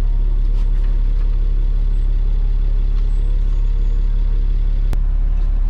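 Tow truck's engine idling steadily with a deep, even rumble. There is one sharp click about five seconds in.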